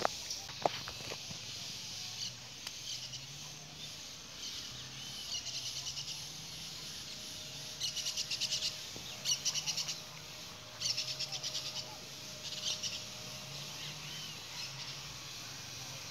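A bird calling in a series of rapid, high-pitched rattling trills, each about a second long and made of quick regular notes, repeated several times over a faint low hum.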